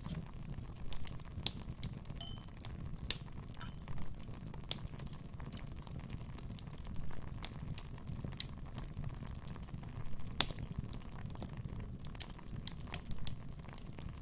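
Wood fire in a fireplace crackling, with irregular sharp pops over a steady low rumble of the flames; one loud pop about ten seconds in.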